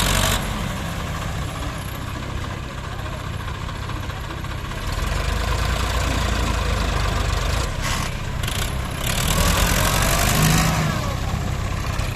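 Diesel tractor engines running hard, with a loud rushing noise that comes and goes over them.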